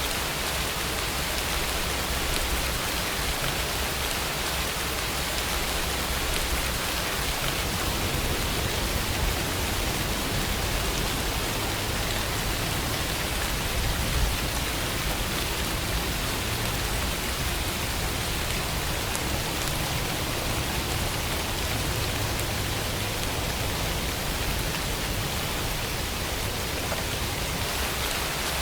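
Steady, even rainfall, rain falling on a surface.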